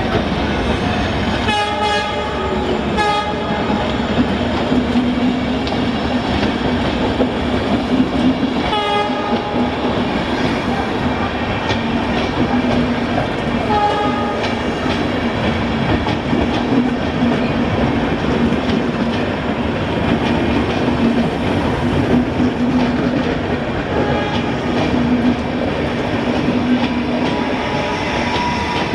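Rajdhani Express train running past at speed, its wheels clattering continuously over the rail joints. Three short pitched sounds cut through the rumble, twice about two and three seconds in and once about nine seconds in.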